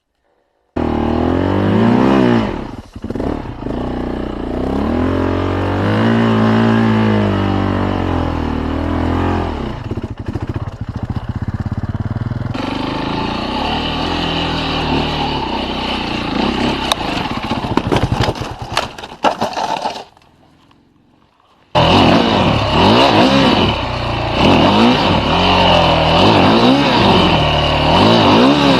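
Motorcycle engines revving hard, the pitch climbing and dropping again and again as the throttle is worked. It comes in several clips with abrupt changes, and there is a short silent break about 20 seconds in.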